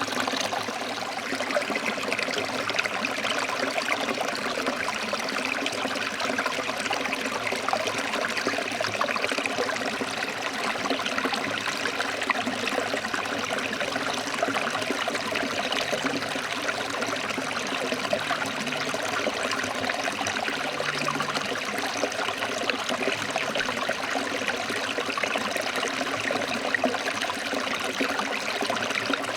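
Forest stream flowing over rocks: a steady, even rush of water with fine splashing and trickling.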